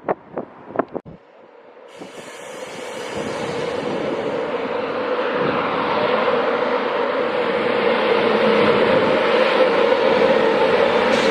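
A train drawing near on the line, its running noise growing steadily louder over several seconds with a steady hum through it. A few short knocks come in the first second.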